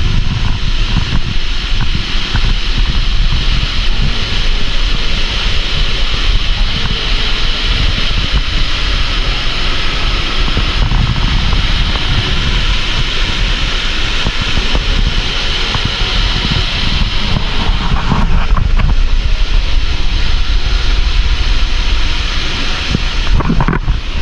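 Steady rush of falling water at the top of a waterfall, with gusts of wind buffeting the microphone.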